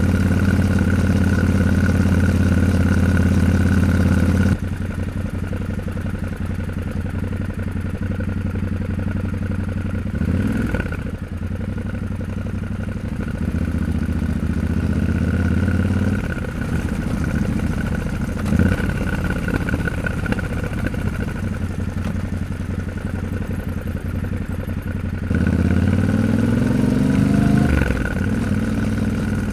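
Yamaha Ténéré 700's parallel-twin engine running under way. The engine note drops about four and a half seconds in, then near the end it rises as the bike accelerates.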